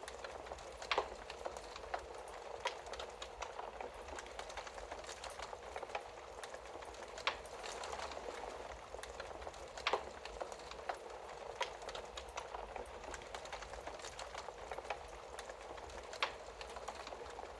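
Wood fire burning in a fireplace: a steady hiss with frequent small crackles and a few louder pops.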